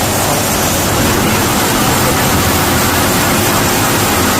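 Sawmill machinery running, a loud steady rushing noise with no breaks.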